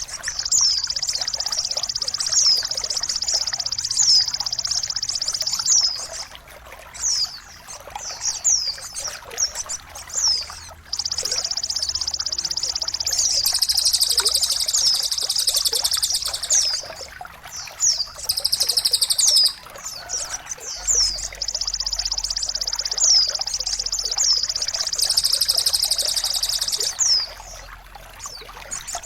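Birdsong over trickling water: long, dense, high-pitched trills lasting several seconds each, broken by short pauses, with sharp downward-sweeping chirps repeating about once a second.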